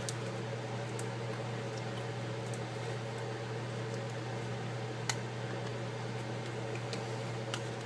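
Steady low hum and room noise, with a few faint small clicks and taps from handling the tablet's parts and tools, the sharpest about five seconds in.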